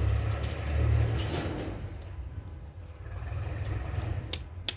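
A hand tool working a bolt loose from a Bajaj Discover 125cc engine's magnet cover: a low rumble of handling, then two sharp metallic clicks near the end.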